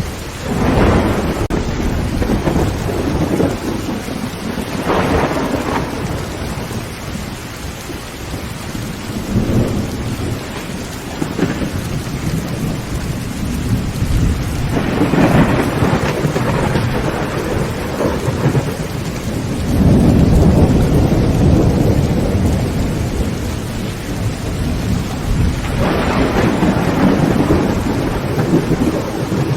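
Heavy rain drumming steadily on a tin tent roof, with about six rolls of thunder swelling and fading over it; the loudest and deepest roll comes about two-thirds of the way through.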